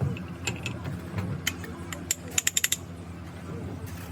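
Sharp metallic clicks and clinks of tools and parts being handled during an engine rebuild, with a quick run of about six clicks midway, over a steady low hum.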